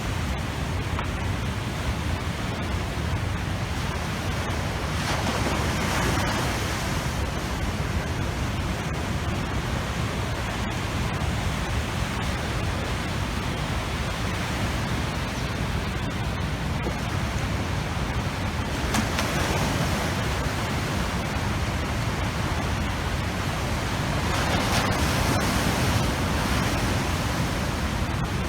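Heavy storm surf breaking in typhoon seas, a continuous roar of water with louder surges about five, nineteen and twenty-five seconds in, and strong wind buffeting the microphone.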